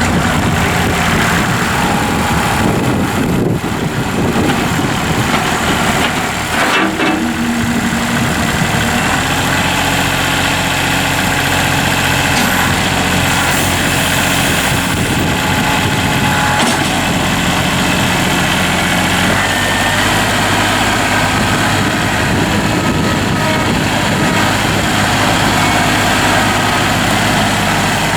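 Three-cylinder Kubota diesel engine of a compact tractor running steadily. Its engine note shifts about two-thirds of the way through.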